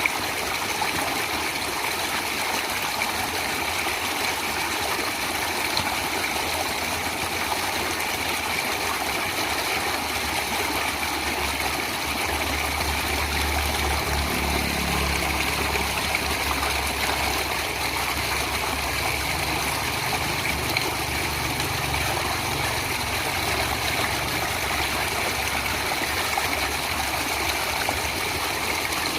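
Stream water flowing steadily. About twelve seconds in, a low rumble swells up beneath it and fades away over the next ten seconds or so.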